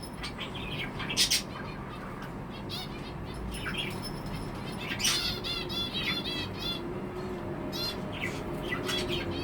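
Budgerigar chirping and chattering in short high calls, with a quick run of repeated warbling chirps around the middle.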